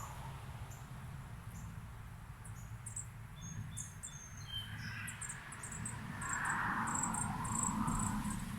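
Small songbirds chirping in quick, very high, short notes that get busier from about three seconds in. A steady low rumble runs underneath, and a soft noisy swell comes near the end.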